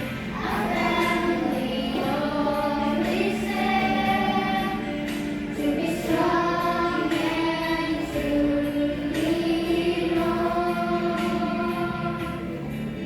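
Music: a choir of voices singing a slow song in long held notes.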